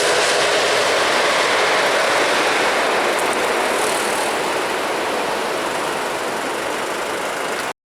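Jet airliner's engine noise, a loud steady rush that slowly fades as the aircraft moves away, then cuts off abruptly near the end.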